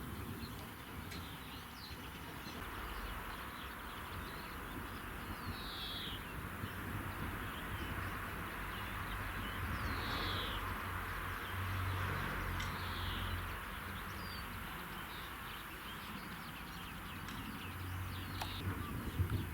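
A songbird gives a short falling call every few seconds over steady outdoor background noise, with a low rumble swelling a little past the middle and again near the end.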